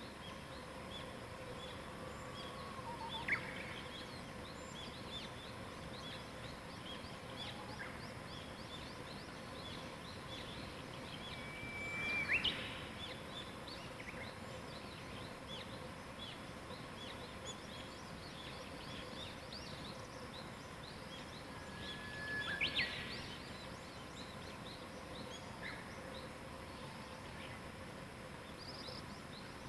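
Morning birdsong: a chorus of small birds chirping continuously, with one louder bird singing three times, about ten seconds apart. Each of its songs is a held whistle followed by a quick, high upward flourish.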